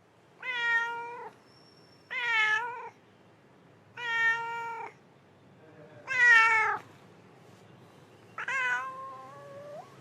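Domestic cat meowing five times, each meow a separate pitched call under a second long, and the last one longer, rising in pitch at its end.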